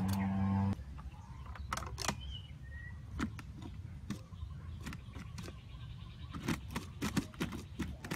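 Music ends about a second in. After that come scattered sharp clicks and taps, with a couple of faint, short bird chirps.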